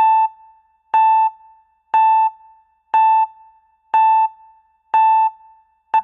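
Edited-in electronic beep sound effect: a short, clear synthesized tone repeated evenly about once a second, six times.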